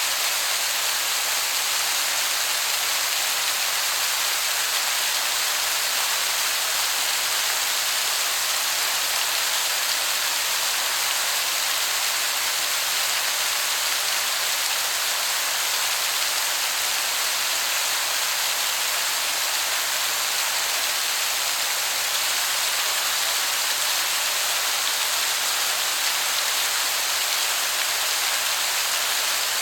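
Waterfall heard from a distance as a steady, even rushing hiss, bright and high-pitched, that sounds like heavy rain.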